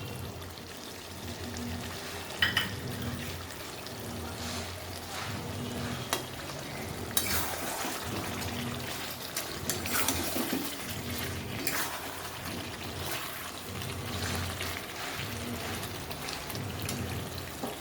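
Chicken simmering and sizzling in a pan as it is stirred with a spatula, with a few sharp scrapes and knocks of the spatula against the pan.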